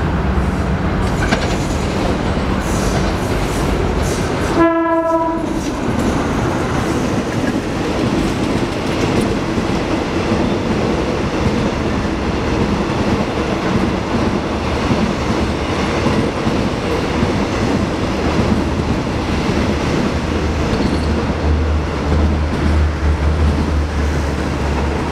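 State Railway of Thailand passenger train passing close by: one short horn blast a little under five seconds in, then the steady rumble and rattle of the coaches' wheels rolling past on the track.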